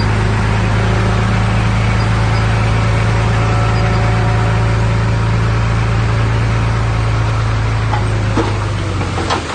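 Large diesel engine of heavy earthmoving machinery running steadily with a deep, even hum. A few sharp clanks come near the end as the engine sound falls away.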